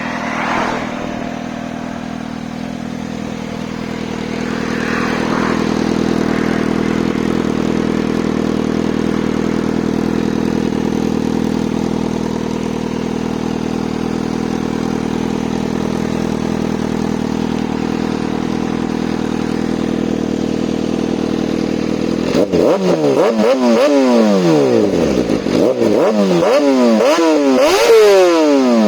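Kawasaki ZX-6R inline-four engine running through an Austin Racing aftermarket exhaust, idling steadily at first. From about 22 seconds in it is blipped again and again, the pitch rising sharply and falling back each time.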